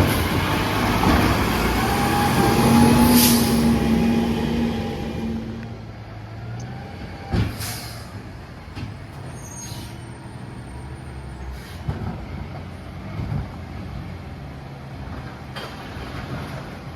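Freightliner M2 garbage truck's diesel engine running loud for the first few seconds, then fading as the truck moves off. Short hisses of air from its air brakes come several times.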